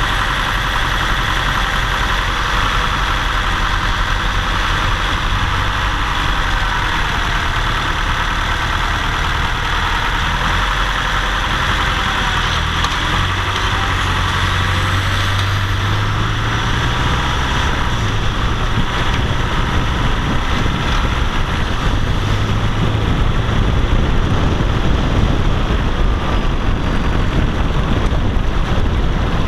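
Car engine pulling uphill with steady road noise, and faint tones that slowly rise and fall. This is the abnormal noise on climbs that an ECU relearn has only slightly improved.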